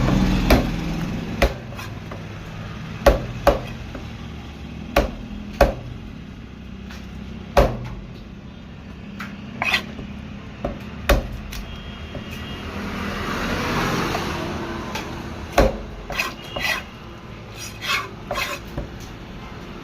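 Heavy knife chopping through a large parrotfish, irregular sharp chops a fraction of a second to two seconds apart. About halfway through, a rush of noise swells and fades.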